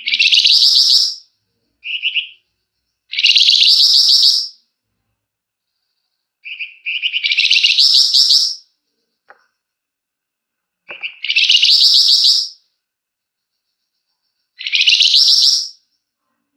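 Flamboyan songbird singing in long, tight, rapid-fire bursts ('ngebren'). There are five bursts of about a second or a second and a half each, several opened by a short lower chirp, with brief silences between them.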